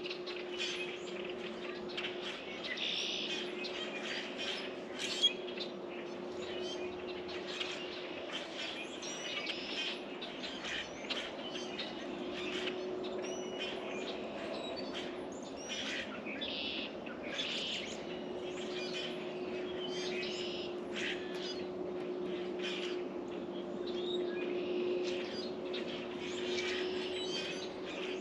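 Small birds at a feeder chirping and calling in quick, overlapping short notes, over a steady low hum that fades in and out. There is a single sharp tap about five seconds in.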